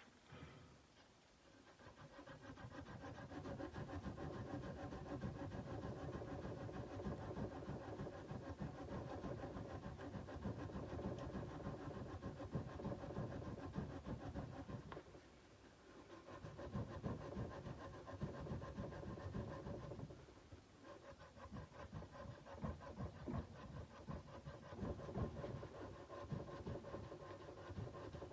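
Sandpaper being rubbed by hand along a steel kukri blade in quick back-and-forth strokes, with brief pauses about halfway through and again a few seconds later.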